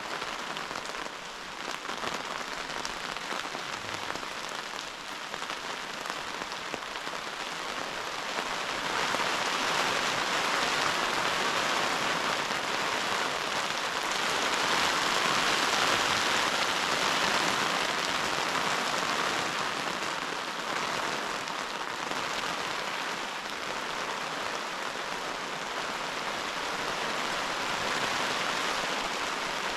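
Heavy rain falling steadily, growing louder about nine seconds in and easing a little after about twenty seconds.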